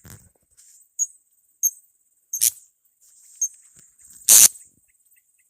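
Blue-crowned hanging parrots (serindit) giving short, shrill, high-pitched calls, about five of them spaced roughly a second apart, the loudest about four seconds in.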